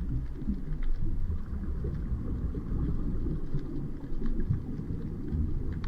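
Low, steady underwater rumble and water noise on an underwater camera's microphone.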